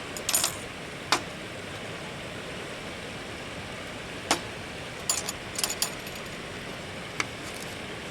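Scattered sharp clinks and clicks, like small metal or glass items being handled, over a steady rushing of river water. Several come in a quick cluster a little after halfway.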